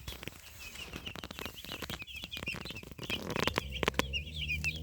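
A brood of two-day-old meat chicks peeping, with many short, high cheeps overlapping without pause and scattered light clicks among them.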